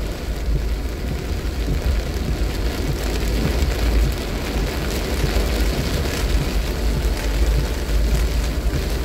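Heavy rain on a car driving on a wet road, heard from inside: a steady hiss of rain and tyre spray over a deep, even rumble of road noise.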